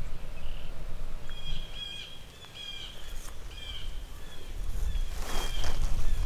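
A songbird chirping in a quick series of short, repeated notes at one pitch, with a low wind rumble on the microphone. A brief rustling burst comes about five seconds in.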